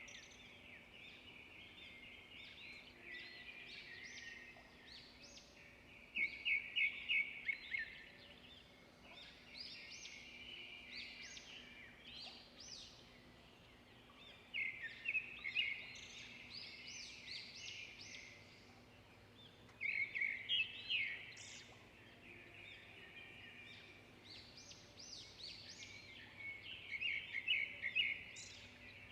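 Songbirds singing: loud bursts of rapid, trilling notes every five or six seconds, with softer chirps in between.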